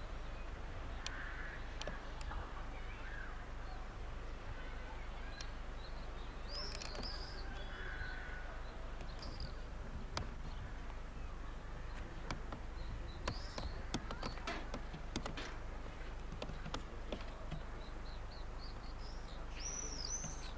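Birds calling on and off, with crow-like caws, over a steady low rumble; a handful of sharp clicks sound in the middle stretch.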